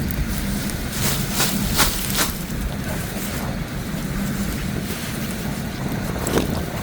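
Wind buffeting the microphone, a steady low rumble and hiss, with a few short crackles between about one and two seconds in and another near the end.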